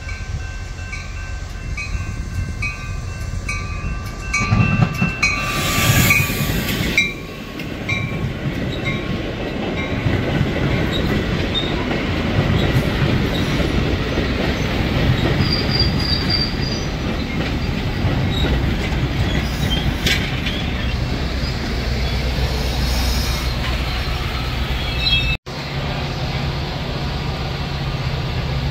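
Bilevel commuter train passing close by, with a steady rumble and wheel noise. For the first few seconds a bell dings about twice a second, and a loud burst comes about five seconds in; near the end it cuts to a lower, steadier rumble of another passing train.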